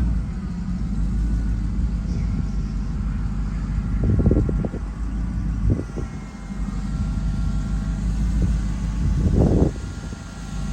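A truck engine idling with a steady low rumble. There are a few short louder bursts, about four, six and nine and a half seconds in.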